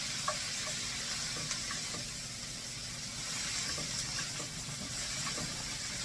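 Chicken pieces and broccoli frying in butter in a skillet: a steady sizzle with faint scattered pops.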